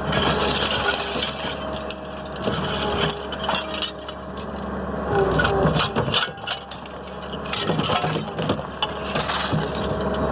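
A car jack being worked: irregular metallic clicks, clinks and knocks with short squeaks.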